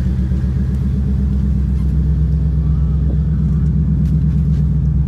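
Turbocharged Ford Coyote 5.0 L V8 running at low revs, a steady, choppy rumble with no clear revving.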